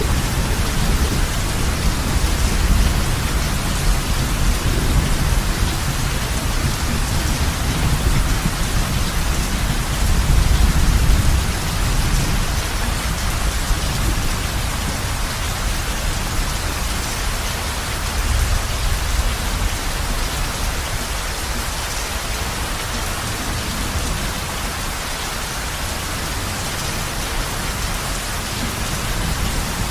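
Heavy rain falling steadily on a roof, with low rolling thunder through the first part that dies away about twelve seconds in.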